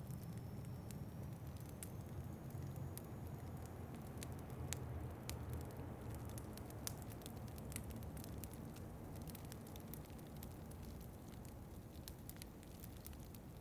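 Wood fire crackling in a fireplace, with scattered sharp pops and snaps over a low, steady rumble.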